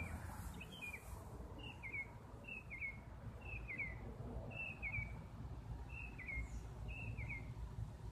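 A bird calling over and over, a short falling two-part chirp about once a second, over a low steady rumble.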